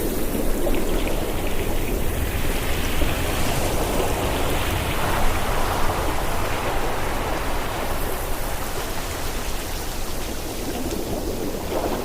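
Ocean surf washing onto a shore: a steady rush of breaking water that swells in the middle and eases near the end.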